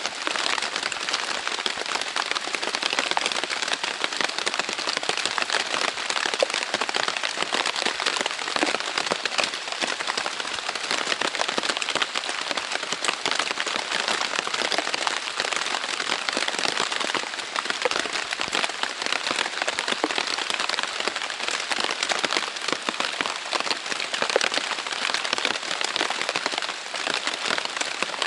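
Heavy rain hitting the Dyneema fabric of a Zpacks Plexamid tent: a dense, steady crackle of countless drops.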